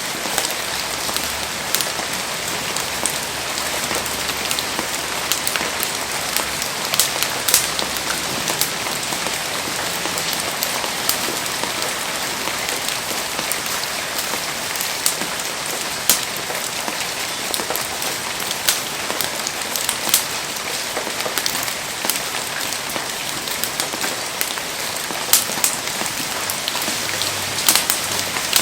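Heavy rain pouring steadily, a dense even hiss with frequent sharp ticks of drops striking close by.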